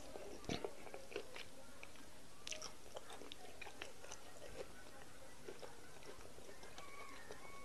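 A person chewing a mouthful of egusi soup and fufu eaten by hand, with scattered short wet clicks and smacks from the mouth and from fingers working the soup.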